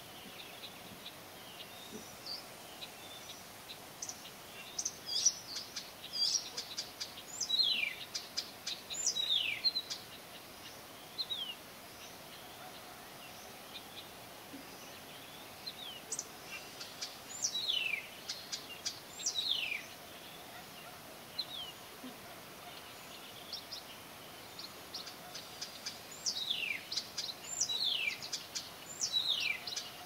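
A songbird singing in three bouts of quick repeated notes and whistles that slide downward, separated by short pauses, over a faint steady background hiss.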